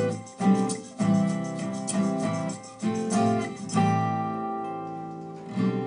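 Guitar music: chords strummed in a steady rhythm, with one chord left ringing for about two seconds late on before the strumming comes back in.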